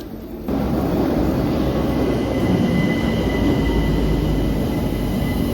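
Train running on rails: a loud, steady rumble with a thin, steady high-pitched whine over it, coming in abruptly about half a second in.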